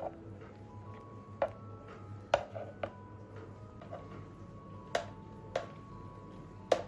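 Kitchen utensils knocking and clicking, about seven sharp separate strikes at uneven spacing, the loudest near the end, over faint held background tones.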